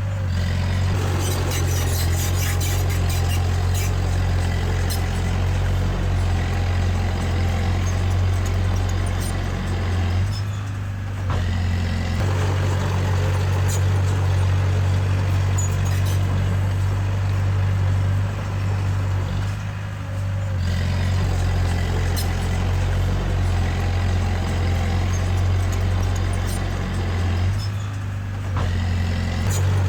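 Small bulldozer's diesel engine running hard with metal clatter over it, easing off briefly three times, about 10, 20 and 28 seconds in.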